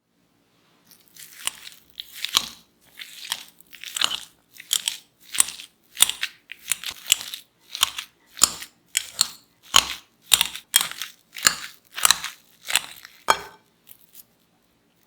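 A run of crisp crunches, about one and a half a second and some twenty in all, each a short sharp crunch of firm food being cut or broken.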